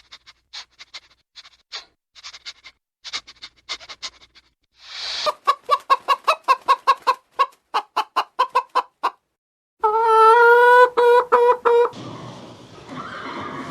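Chickens clucking: soft short clucks at first, then a fast run of loud clucks, then one long loud call lasting about two seconds.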